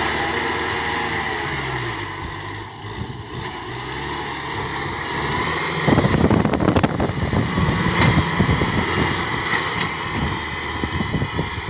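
Tractor engine running, its pitch dropping and then climbing again, then running rough and loud with a crackling rattle from about six seconds in.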